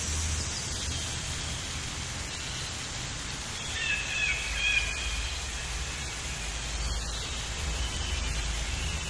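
Outdoor ambience: a steady background hiss with a low rumble, and a few short bird chirps around the middle and again a little later.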